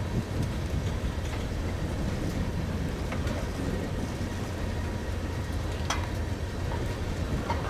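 Freight train cars rolling slowly past with a steady low rumble, wind buffeting the microphone, and a few faint wheel clicks, one sharper about six seconds in.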